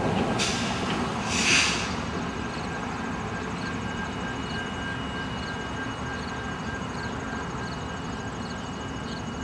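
Diesel freight locomotives running in a rail yard, a steady low rumble, with a short loud hiss about a second and a half in.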